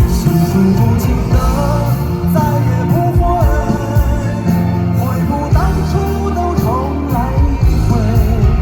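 Live band playing amplified pop-rock with bass and drums while a singer holds a melody with vibrato, recorded from among the audience at a concert.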